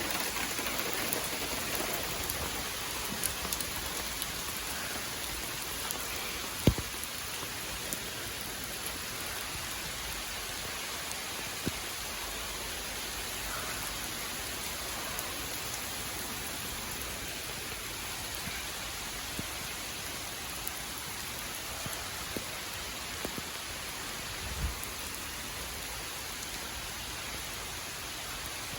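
Heavy rain falling in a steady hiss, with scattered sharp drips and taps and a few dull thumps, the loudest about seven seconds in.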